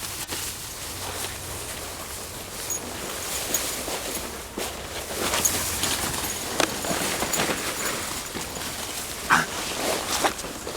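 Dogs moving through tall dry weeds: stalks rustling and crackling in many short bursts, with one louder short sound about nine seconds in.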